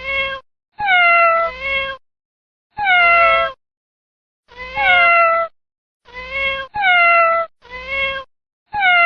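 Domestic cat meowing loudly and repeatedly, about nine meows in a row with short pauses between them, each call dropping in pitch.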